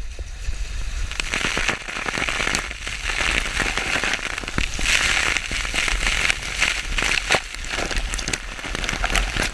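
Water-slide water rushing and spattering, full of crackly little clicks and splashes, loudest about halfway through.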